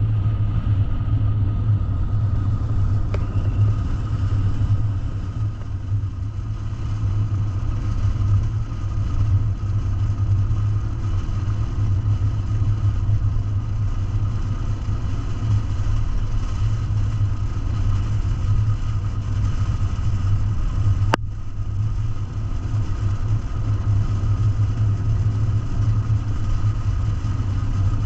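A road vehicle running at a steady speed, a constant low drone with no change in pitch, broken only by one sharp click about three-quarters of the way through.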